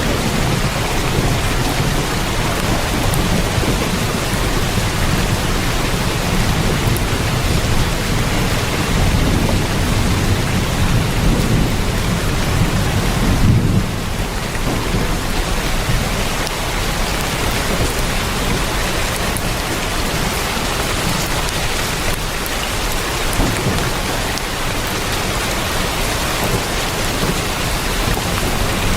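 Heavy rain drumming on a tin roof in a steady hiss, with a low rumble of thunder under it that cuts off about halfway through.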